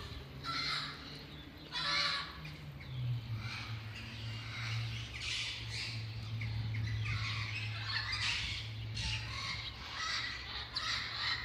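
Birds calling with many short, repeated calls, over a steady low hum.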